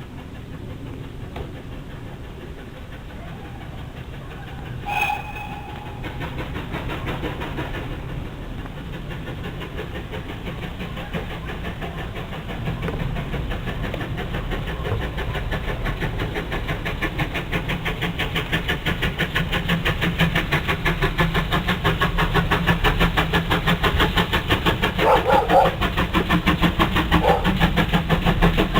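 Steam train approaching, its rapid, even rhythm of beats and wheel noise growing steadily louder, with a brief whistle about five seconds in.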